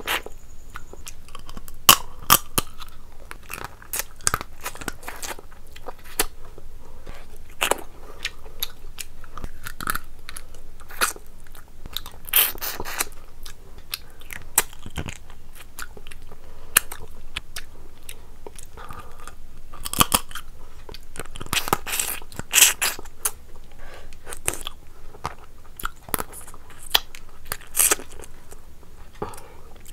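A person chewing and crunching mouthfuls of rice and curry, with sharp crisp crunches and clicks scattered throughout and denser bursts of crunching about twelve seconds in and again around twenty to twenty-three seconds.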